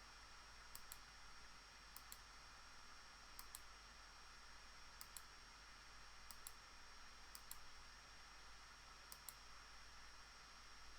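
Faint computer mouse clicks, each a quick press-and-release pair, seven of them one to two seconds apart, over a low steady hiss: points being placed one by one with a drawing program's pen tool.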